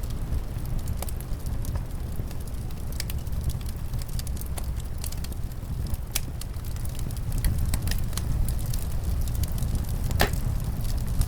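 Wood fire in a fireplace crackling with frequent small pops and one louder pop about ten seconds in, over a steady low rumble of wind.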